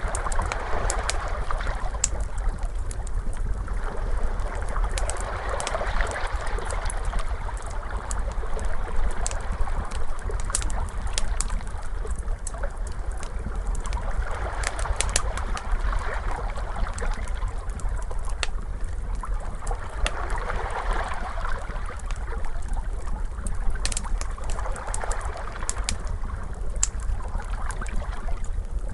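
Ocean waves washing in and out in swells every four to five seconds over a steady low rumble, mixed with the scattered sharp pops and snaps of a crackling fire.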